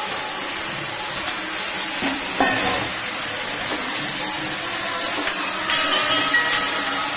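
Fried momos sizzling in spicy sauce in a steel wok while a metal spatula stirs and tosses them, with a few clicks and scrapes of the spatula against the pan.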